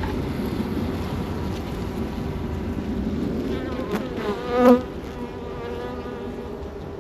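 Honey bees buzzing around an open hive, a steady massed hum. About four and a half seconds in, one bee buzzes loudly close by for a moment, its pitch bending as it passes.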